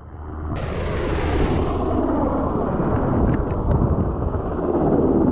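Military helicopter flying, a steady rotor and engine rumble with wind buffeting the microphone. The sound swells in over the first couple of seconds.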